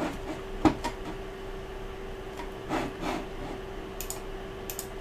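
A few sharp clicks, the loudest less than a second in, and soft rubbing or handling sounds over a steady electrical hum, typical of someone working a computer at a desk.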